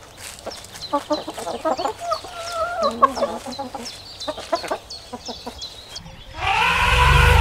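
Chickens clucking: many quick short clucks mixed with a few longer calls. About six seconds in, a much louder, drawn-out low animal call cuts in.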